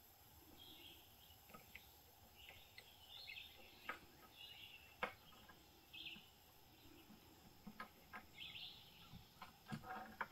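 Faint bird chirps, short calls every second or two, in an otherwise quiet woodland, with a few soft clicks.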